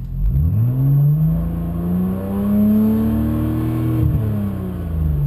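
BMW 135i's turbocharged straight-six running through a prototype 3.5-inch stainless exhaust with no mufflers, its revs climbing smoothly for about two seconds, holding briefly, then falling away over the second half.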